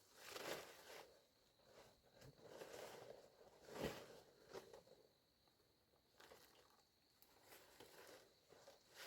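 Faint rustling and scraping with a few light knocks, the sharpest single knock about four seconds in.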